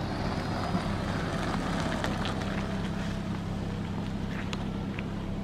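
A vehicle engine running steadily at idle: an even low hum with a few faint ticks over it.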